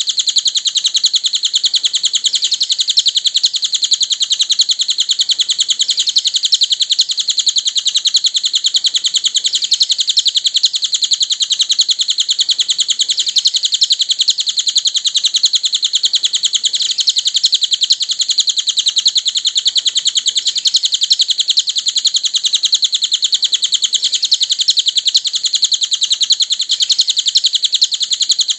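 Cililin songbird singing continuously: a dense, high-pitched stream of rapid chirps and trills that never pauses, as in a masteran recording used to tutor caged songbirds.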